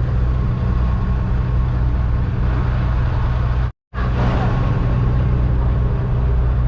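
Fishing boat's engine running steadily under way, a low drone with a hiss of water and wind over it. The sound cuts out completely for a moment a little past halfway, then resumes unchanged.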